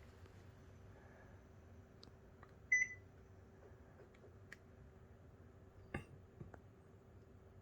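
A KDK ceiling fan's receiver gives one short, high beep about three seconds in, the sign that it has taken a remote-control command. Under it runs a faint, steady hum, and a sharp click comes about six seconds in.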